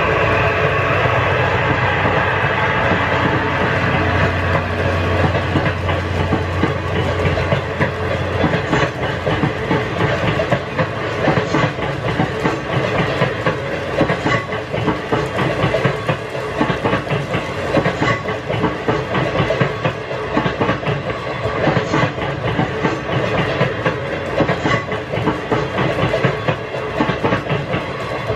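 Freight train passing: a low steady engine hum while the locomotive goes by, ending about eight seconds in, then a continuous wheel rumble with clicks over rail joints as the container wagons roll past.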